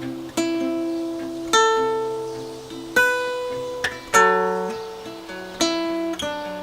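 Slow guitar music: six chords struck one at a time, each left to ring and fade before the next.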